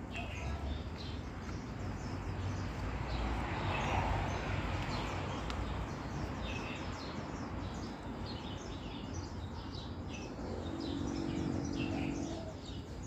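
Small birds chirping on and off, many short high calls one after another, over a low rumble. Near the end a low steady hum lasts about a second and a half.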